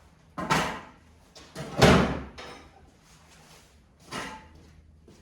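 Three separate knocks and thumps as work gear is handled and set down. The second, about two seconds in, is the loudest and deepest.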